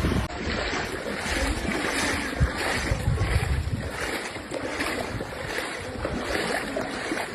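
Water rushing and sloshing, with wind buffeting the microphone.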